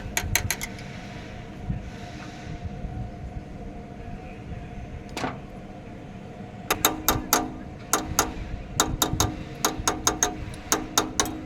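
Rapid metallic clicking from hand-tool work on an engine, in short runs of four or five clicks roughly once a second from about halfway through, after a brief run at the start, over a steady low hum.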